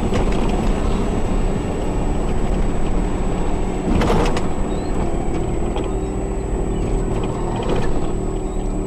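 Car engine and road noise heard from inside a moving car by its dashcam, with a thin steady high whine. There is a short, louder clatter about four seconds in and another near the end.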